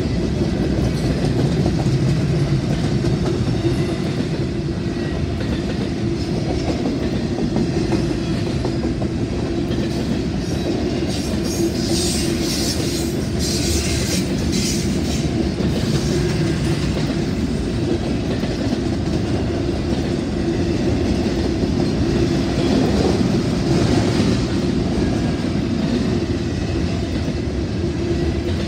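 Canadian Pacific train rolling past with a steady rumble, its wheels clacking over the rail joints, and a brief high-pitched patch about halfway through.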